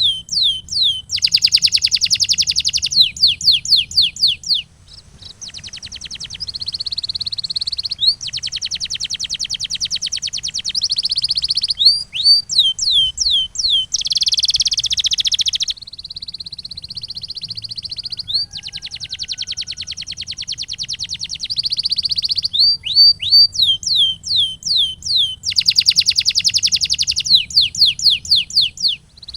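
Canary singing a continuous song of repeating phrases: runs of quick downward-sweeping chirps, fast rolling trills and held whistled notes, with brief pauses between phrases.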